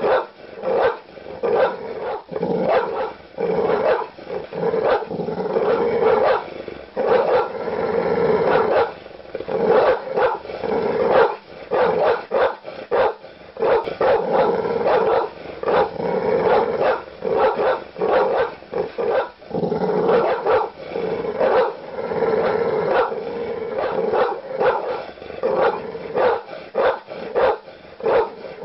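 Large dog barking aggressively with deep barks, one after another in quick succession with hardly a break.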